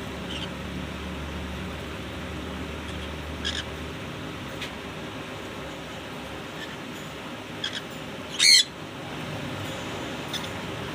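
Short, sharp bird calls a few seconds apart, the loudest and longest one about eight and a half seconds in, over a steady hiss.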